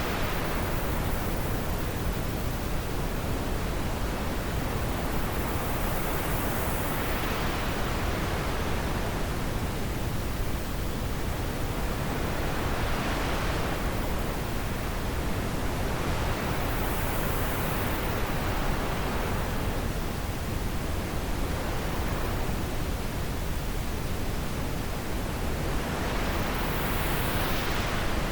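Wind blowing steadily, swelling and easing in slow gusts every several seconds.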